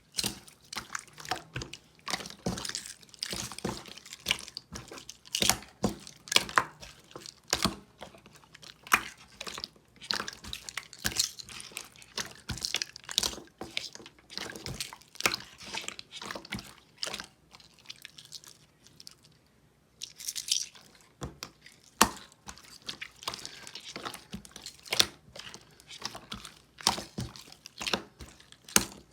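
Clear glitter slime being squished and pressed by hand, giving a rapid, irregular run of wet clicks and small pops of trapped air, with a brief pause about two-thirds of the way in.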